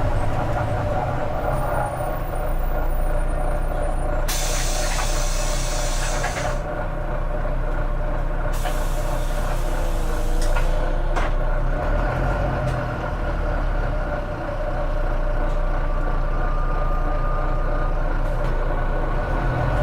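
Volvo B9TL bus's six-cylinder diesel engine running with a steady low rumble. Two loud bursts of compressed-air hiss from the air brake system cut in, one about four seconds in and another about eight and a half seconds in, each lasting roughly two seconds.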